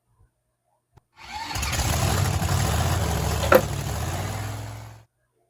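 A small electric motor runs steadily for about four seconds, with one sharp click partway through, then winds down and stops.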